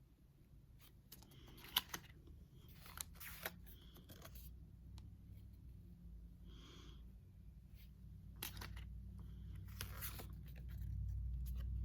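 Pokémon card booster pack wrapper being torn and crinkled, with cards rustling as they are handled, and a few sharp clicks about two and three and a half seconds in. A low rumble swells near the end.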